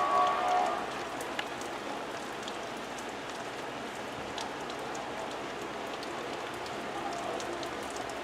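Heavy thunderstorm rain falling steadily, with scattered drops ticking against window glass close by. A brief tone sounds right at the start.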